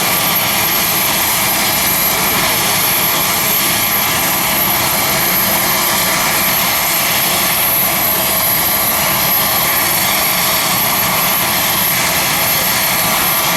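Leonardo AW249 Fenice attack helicopter in flight: its turbines and rotor make a steady, loud noise with a constant high whine.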